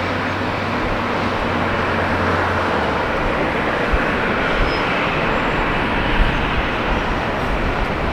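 Jet airliner engine noise: a loud, steady rushing, with a low hum underneath that stops about three seconds in.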